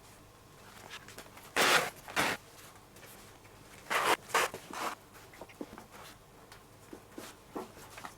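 Leather lace being pulled through a baseball glove's lacing holes: two quick swishes about one and a half seconds in, then three more around four seconds in, with small ticks and rustles of handling between.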